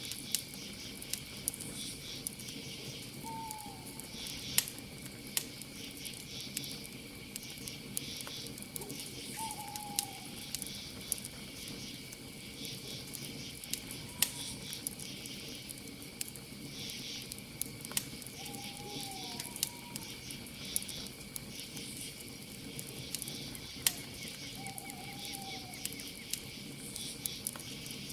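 Campfire crackling with frequent sharp pops, over a steady high chirring of crickets. A short falling call sounds four times, several seconds apart.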